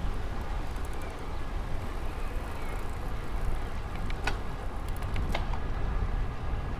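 Wind rumble on the microphone and riding noise from a bicycle on a park road, with a few sharp clicks about two thirds of the way through.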